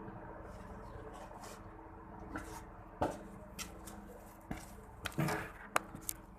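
A steady mechanical hum with a series of sharp knocks and clatters, about seven of them from two seconds in, the loudest about three seconds in and near the end.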